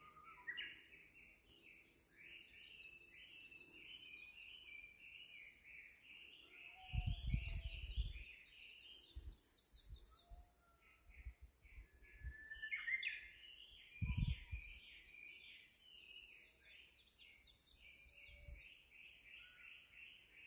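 Small birds chirping and twittering in rapid, overlapping calls, with two short bursts of low rumble, about a third and two thirds of the way through.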